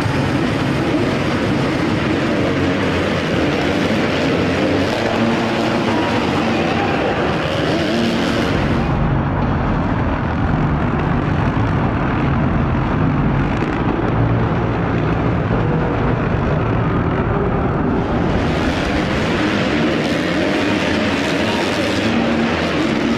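Several motocross bike engines racing, revving up and down together.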